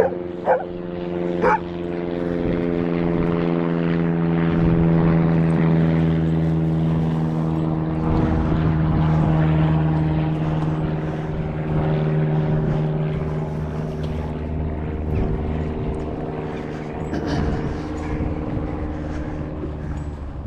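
A motor engine drones steadily as it passes, a constant hum with a low rumble beneath, growing louder through the middle and slowly fading towards the end. Two short sharp sounds come in the first two seconds.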